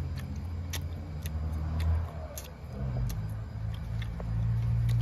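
A man chewing boiled pork offal with his mouth close to the microphone: irregular sharp wet clicks about every half second over a low steady hum.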